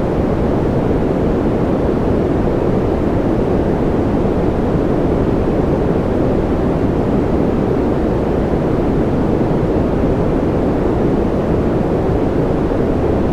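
A continuous sleep-noise track sold as white noise: a steady, unchanging deep rushing hiss, heaviest in the low and middle range and fading toward the top.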